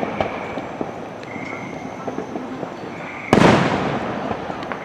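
A firework goes off with one loud bang about three seconds in, its rumble trailing away, over the lighter crackle of other fireworks. A short high buzzy call repeats in the background every second or so.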